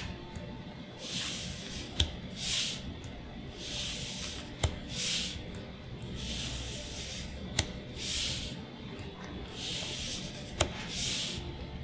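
Magic: The Gathering trading cards being slid one over another during a pack reveal. Soft papery swishes come about once a second, with a sharp tap about every three seconds.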